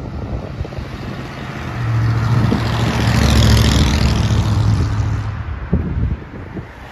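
A car driving past at close range, its low exhaust rumble swelling to a peak about halfway through and then fading away.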